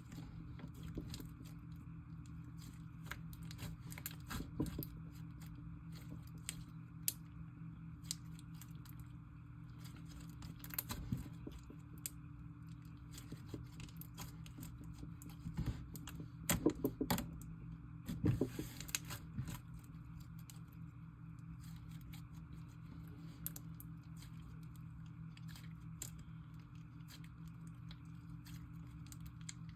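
Hands squishing, stretching and mixing slime: scattered small sticky clicks and crackles, with a cluster of louder ones a little past the middle, over a steady low hum.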